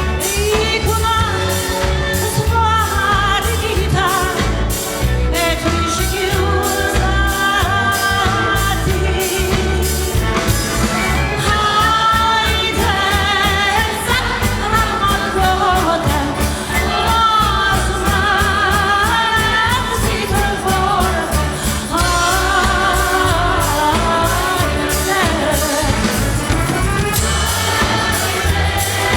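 A song: a woman singing with a wide vibrato over symphony-orchestra accompaniment with a steady beat.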